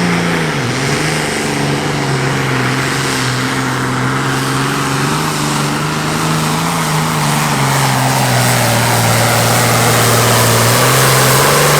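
Super Farm class pulling tractor's turbocharged diesel engine running hard under load, dragging the sled. Its pitch dips about half a second in as the load comes on, then holds fairly steady with slight wavering.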